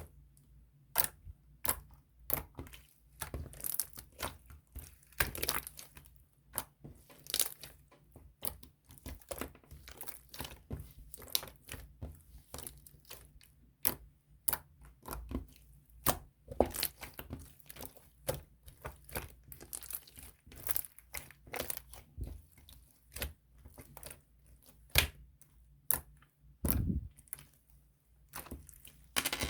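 Crinkly material being handled and crumpled, with many sharp, irregular crackles.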